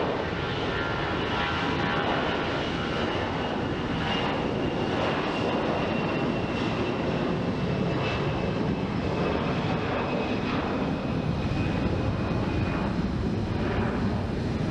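Jet airliner's engines at takeoff power on departure: a steady rush of noise with a high whine that slowly falls in pitch.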